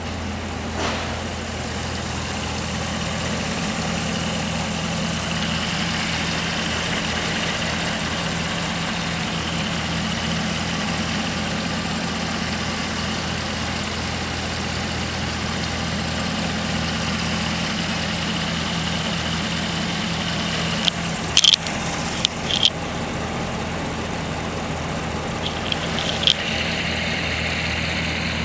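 Supercharged 6.2-litre LT4 V8 of a 2023 Camaro ZL1 idling steadily, with a low even hum. A few sharp clicks come about three quarters of the way through.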